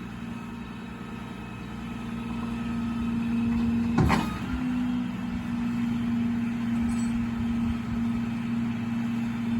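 Tow truck's engine and hydraulic winch running with a steady hum that swells over the first few seconds as the truck is winched up onto the bed. A single clank comes about four seconds in.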